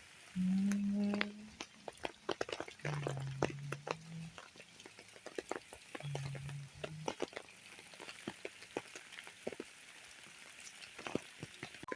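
Rain falling, with many drops tapping and dripping on nearby surfaces over a steady hiss. A low, steady-pitched tone sounds three times, each about a second long: near the start (the loudest), about three seconds in and about six seconds in.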